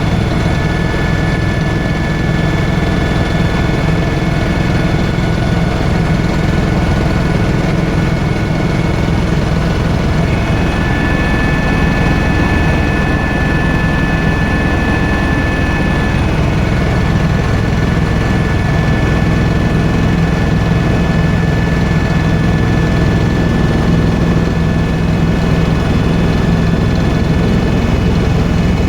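Helicopter running steadily: constant engine and rotor noise with a steady high turbine whine over it.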